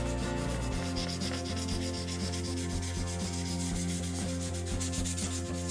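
Sandpaper rubbed over the painted body of a scale RC Jeep in quick, even back-and-forth strokes, wearing the paint down to a faded patina.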